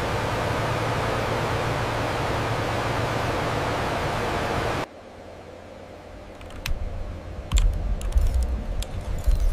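Steady, hiss-like factory ambience that cuts off suddenly about halfway through. A quieter background follows, with several low thuds and a few sharp clicks.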